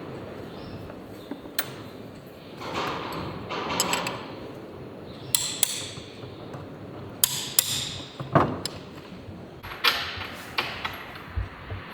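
Tools and metal engine parts being handled during an engine rebuild: an irregular string of sharp clicks, knocks and clinks, some with a brief metallic ring.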